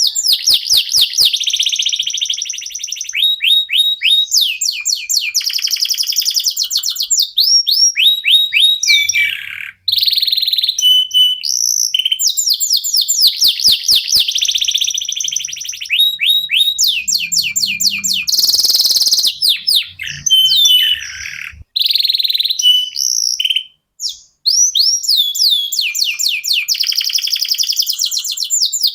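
Domestic canary song: long runs of fast repeated trill notes mixed with quick rising and falling whistles. The song breaks off briefly a few times, and there is one harsh, buzzy note about two-thirds of the way through.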